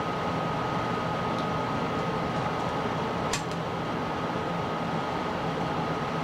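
Steady room hum from a running machine, with a thin steady high tone over it, and one short sharp click about three seconds in.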